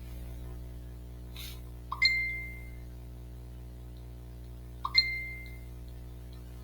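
Two short electronic notification pings about three seconds apart, each a quick click-like onset followed by a clear tone that fades away, over a steady electrical hum.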